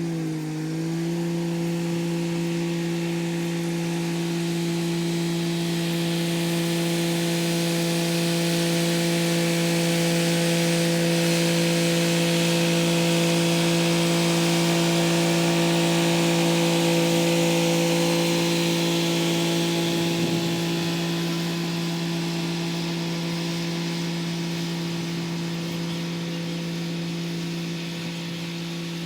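Kubota SL35 tractor's diesel engine running at a steady pitch while its rotary tiller churns the soil. The engine note dips briefly about half a second in. A rough hiss from the tiller swells through the middle and eases off near the end.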